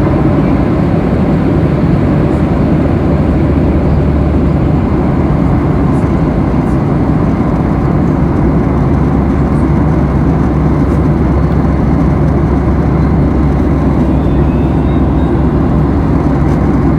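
Steady roar of an airliner's cabin in flight: engine and airflow noise, deep and unchanging.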